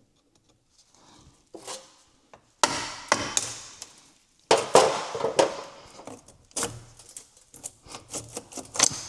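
Clicks and knocks of a pick tool and hands working the retaining clips off an oil cooler line fitting. There are two louder sudden scrapes, about two and a half and four and a half seconds in.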